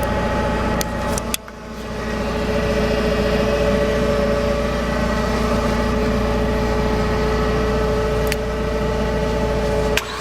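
Starter motor cranking a Mazdaspeed 2.3-litre DISI turbo four-cylinder engine for a compression test, a steady fast whine. The cranking cuts out just over a second in and spins back up, and there are clicks near the end.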